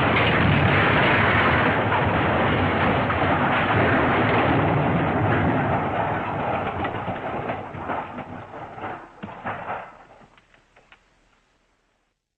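Crash sound effect: a dense, noisy rumble of tumbling wreckage that thins after about six seconds into scattered separate clatters and knocks, dying away about eleven seconds in.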